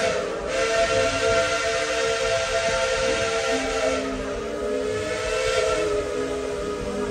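A steady shrill sound from the moving narrow-gauge steam train: several pitches held together throughout, with a lower tone that comes and goes.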